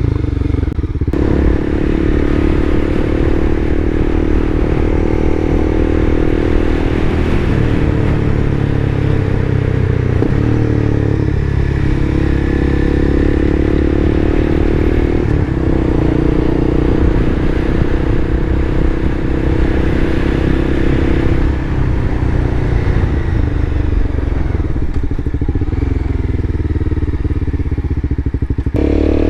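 Motorcycle engine running while riding, its note rising and falling several times with changes in throttle and speed.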